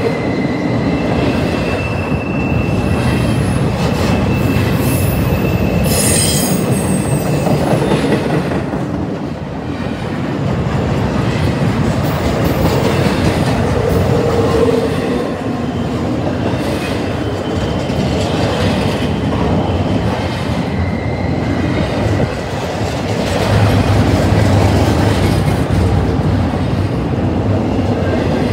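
Intermodal freight train of double-stack container cars rolling past close by: a steady, loud rumble and clatter of steel wheels on the rails, with thin, high wheel squeals now and then.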